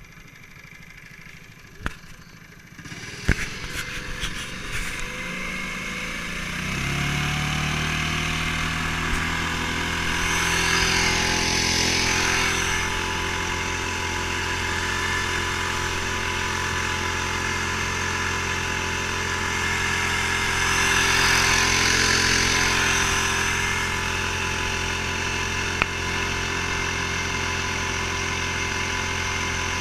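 8 hp surface-drive mud motor on an inflatable PVC boat coming to life about three seconds in after a couple of knocks, its pitch rising as it settles, then running steadily and growing louder twice for a few seconds.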